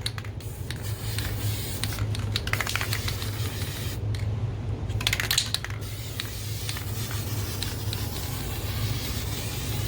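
Aerosol spray paint can hissing in bursts as the first coat of paint goes onto a bare BMX wheel rim, with a short pause about four seconds in.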